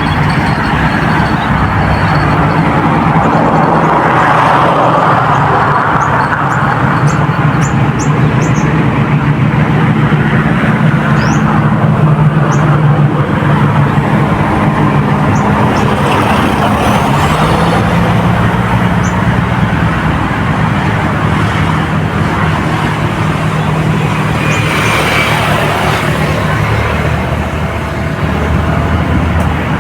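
A motor engine running steadily with a low hum, its pitch shifting about halfway through, with a few faint high chirps over it.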